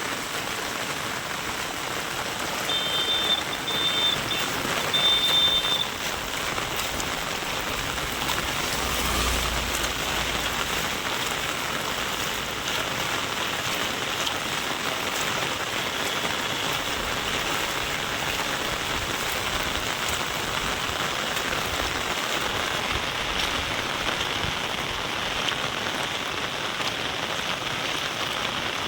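Steady rain falling and pattering on surfaces. A short high-pitched tone sounds three times in quick succession about three seconds in.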